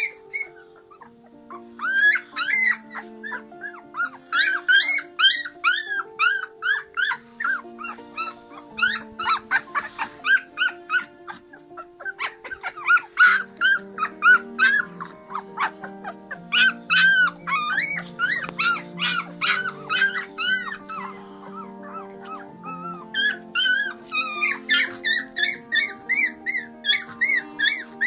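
Rapid high-pitched squeaks, each rising and falling in pitch, about three a second in runs broken by a couple of short pauses, over music with held low notes.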